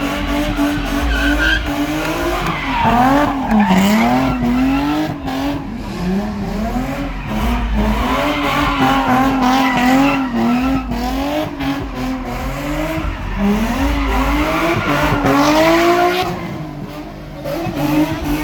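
A car engine revving up and down repeatedly while its tires squeal and skid.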